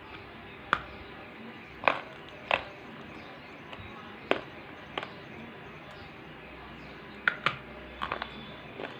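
Water drops falling one at a time, each a sharp plink, about nine at uneven intervals over a steady faint hiss.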